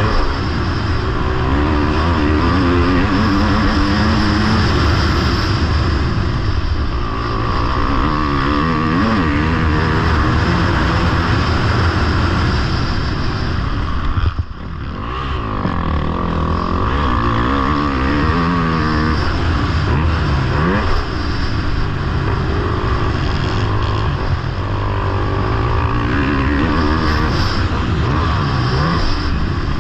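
Motocross bike engine heard on board, revving up and down as the rider works the throttle and gears, with wind noise on the microphone. The throttle is chopped briefly about halfway through, then the engine picks up again.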